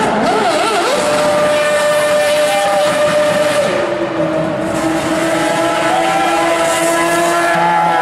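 Ferrari Formula 1 car's engine running at high revs: quick revving blips at the start, then held at a steady high pitch that steps down about four seconds in and rises again near the end.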